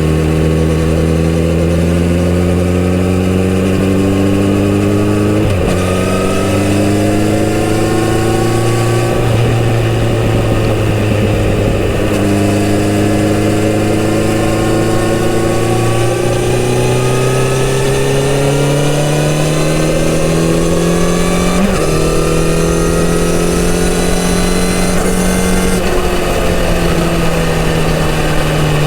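Kawasaki Z900RS inline-four engine through its stock exhaust, heard from on the bike while riding: it rises in pitch under acceleration, drops sharply at several gear changes, holds steady for a while and eases off near the end. A steady rush of wind and road noise runs underneath.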